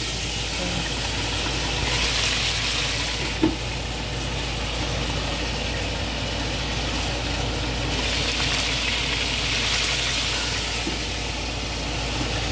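Chicken drumsticks frying in oil in a covered pan, a steady sizzle that swells louder twice, over a low steady hum. There is one short clack about three and a half seconds in as the glass lid goes on.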